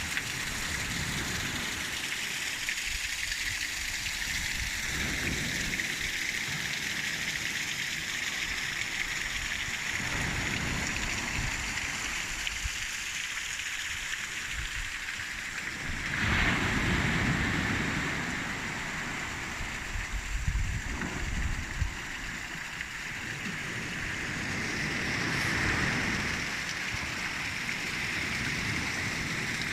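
Wind buffeting the microphone: uneven low rumbling gusts over a steady rushing hiss, swelling louder about halfway through and again near the end.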